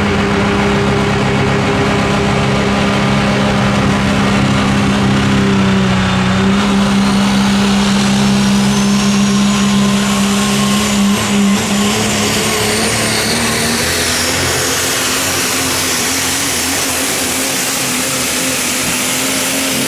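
Super stock diesel four-wheel-drive pulling truck running hard under load down the track, its engine note loud and steady. A high turbocharger whistle climbs in pitch through the middle of the run and then holds.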